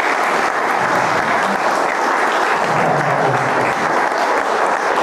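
An audience clapping steadily in applause.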